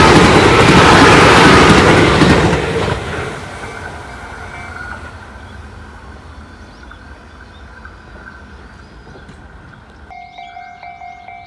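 Tobu 10030-series electric train running past on steel rails, its wheel and running noise loud at first and fading away about three seconds in as the last car leaves. Near the end a steady, repeating electronic ringing tone starts up.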